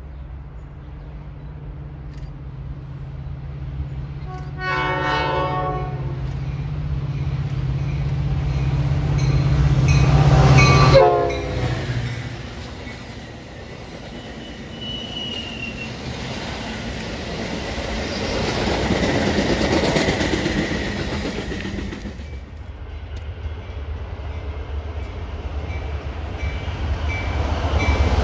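A train approaching with its locomotive engine humming louder, sounding a horn blast about five seconds in and a second brief blast that drops in pitch as the locomotive passes. After that the rail cars roll by with steady wheel noise on the rails and a brief wheel squeal.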